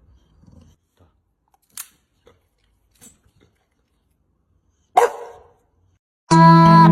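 A single sharp dog bark after a few faint clicks. About a second later, music with plucked guitar notes starts up.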